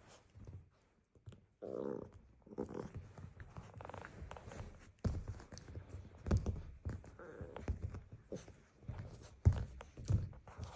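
Maltipoo puppy playing with a squeaky toy: scattered thumps and scuffles, the loudest about halfway and near the end, with a few short squeaks.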